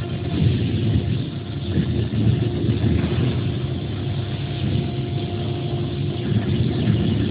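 Stone CNC router running as it engraves stone, a steady machine noise with a constant hum over a rough low rumble.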